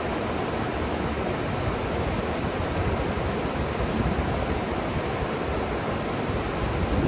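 River water rushing steadily below: a constant, even noise that is heaviest in the low range.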